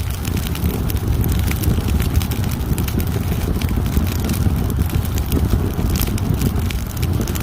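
Fireplace wood fire crackling, with many small irregular pops and snaps over a steady low rumble.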